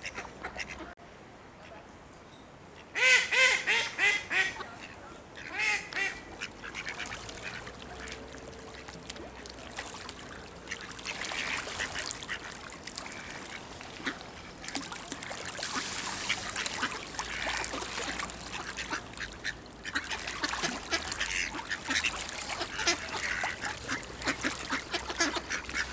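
Ducks quacking, a loud run of calls about three seconds in and another near six seconds, then a steady bustle of quieter calls and splashing as the flock crowds in to be fed.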